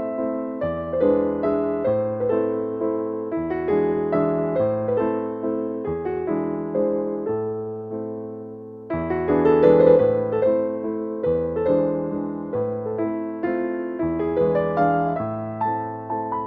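Background solo piano music, a slow, gentle piece with a bass note changing every second or so; a new, slightly louder phrase starts about nine seconds in.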